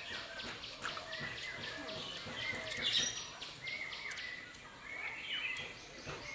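Small birds chirping repeatedly in the background, many short calls overlapping one another.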